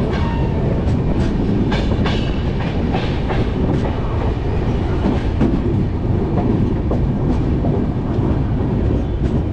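Passenger train running on the rails: a steady rumble with irregular clicks of the wheels over the track.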